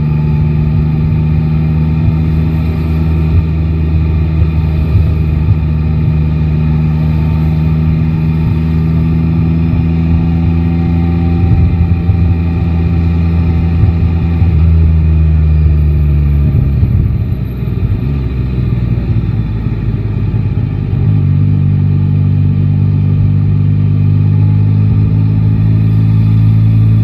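Yamaha Tracer 9 GT motorcycle's inline three-cylinder engine running at steady cruising revs. It eases off about two-thirds of the way through, then pulls steadily again for the last few seconds.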